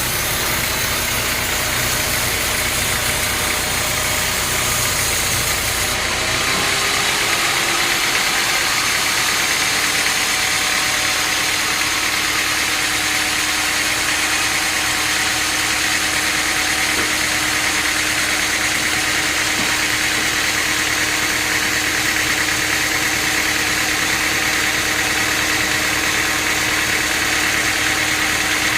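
Sawmill machinery running steadily, a loud engine-like drone with a wash of higher noise; about six seconds in the deep rumble drops away and a steady hum carries on.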